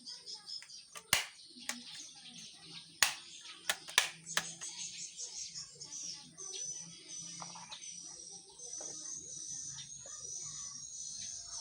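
High-pitched bird chirping repeating steadily, with several sharp knocks in the first half.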